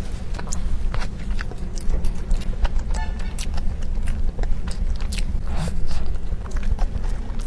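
Close-miked chewing and wet mouth sounds of a person eating soft tiger skin roll cake, with irregular small clicks and smacks over a low rumble.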